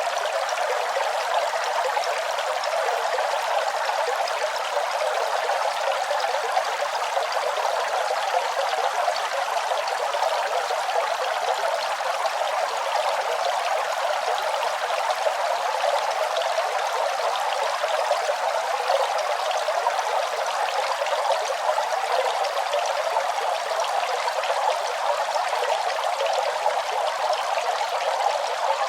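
Running water, a steady, unbroken rush with no changes.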